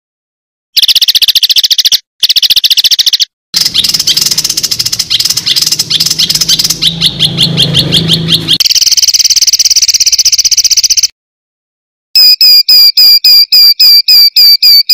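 Recorded songbird calls edited together as a master track for training contest birds: rapid trills and chattering repeated notes in short clips with abrupt dead-silent cuts between them. Near the end a loud, sharp call repeats about three times a second.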